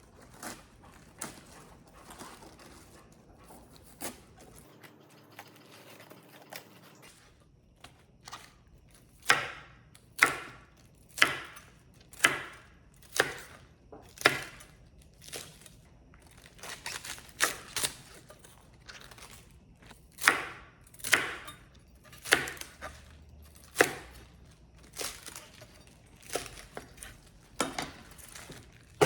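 Kitchen knife chopping on a cutting board while preparing kimchi ingredients. Faint clicks and rustling at first, then from about nine seconds in a steady run of sharp cuts, roughly one a second.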